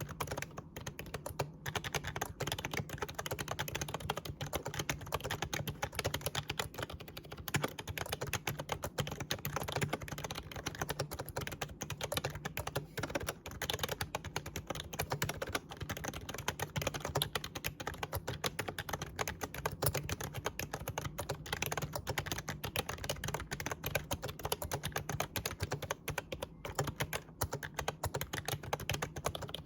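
Continuous typing on an Actto retro mini Bluetooth keyboard, a typewriter-style membrane keyboard: a steady, dense stream of key clicks with no pauses.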